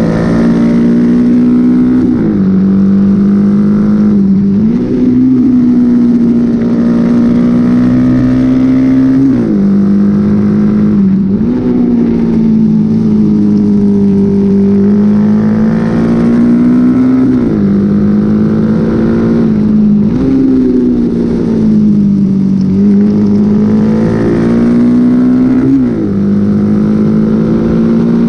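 Honda XL motorcycle engine under hard racing use, loud throughout. Its pitch climbs and sags and then jumps suddenly up or down about eight times, as the rider works the throttle and gears.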